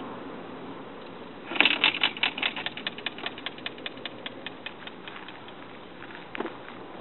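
A run of sharp clicks at about five a second, loud at first and fading away over a few seconds, then a single knock near the end.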